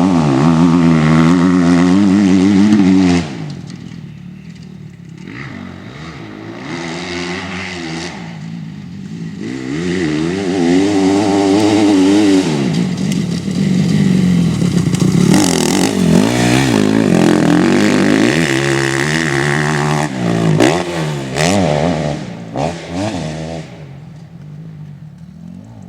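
Motocross motorcycle engines revving up and down as the throttle opens and closes around a dirt track. The engines are loud at first and cut away about three seconds in, build again to a long loud stretch, then fade near the end.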